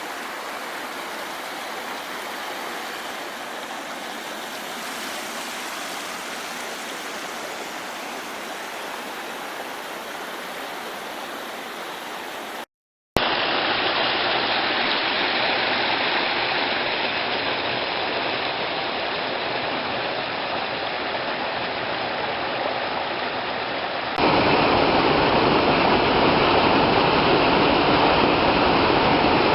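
Mountain stream flowing steadily. The sound cuts out for a moment about 13 seconds in, then returns louder, and steps up louder again about 24 seconds in.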